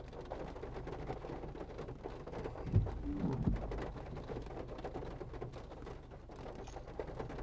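Rain pattering steadily, with a brief low thump and a short low-pitched sound a little under three seconds in.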